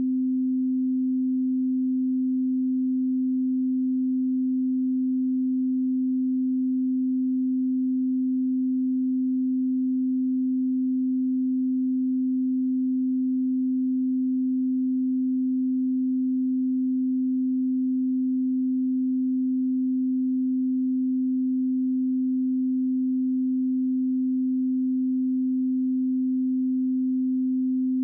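A steady 258 Hz pure sine tone used as an audio test and calibration signal, one unchanging low hum at constant level.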